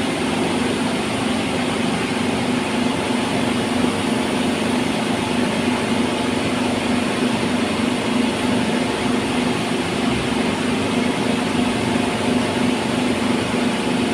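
A steady mechanical hum, engine-like, holding one low pitch over a broad hiss and never changing.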